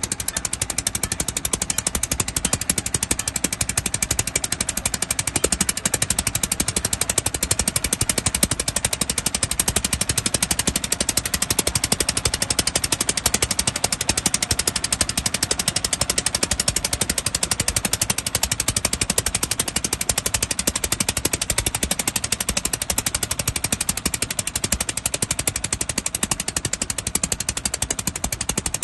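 A boat's engine running steadily and close, with a rapid, even knocking beat.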